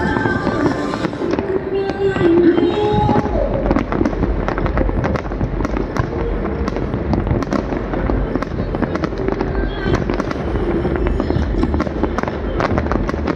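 Fireworks going off: a steady stream of pops, bangs and crackles from rockets and bursting aerial shells.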